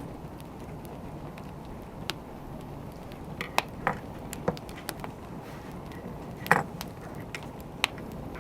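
Wood fire crackling: a steady low rush of burning with irregular sharp pops and snaps, the loudest about six and a half seconds in.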